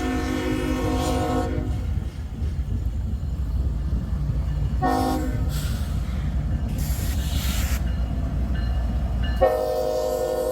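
Freight diesel locomotive's horn chord sounding at a grade crossing: a long blast that ends about a second and a half in, a short blast about five seconds in, then another long blast starting near the end, over the steady low rumble of the passing train. This is the long-long-short-long crossing signal.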